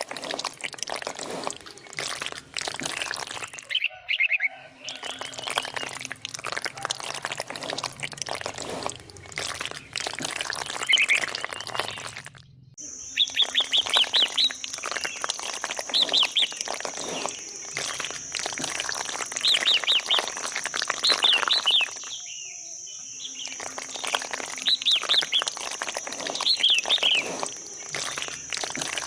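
Many small birds chirping busily and continuously, in stretches that break off abruptly a few times. A steady high-pitched whine joins about thirteen seconds in and continues.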